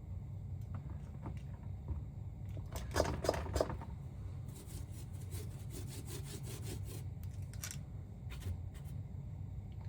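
Nail-stamping tools worked on a metal stamping plate: a few sharp taps and clicks, then a quick run of short scraping strokes as polish is scraped across the plate. A steady low hum runs underneath.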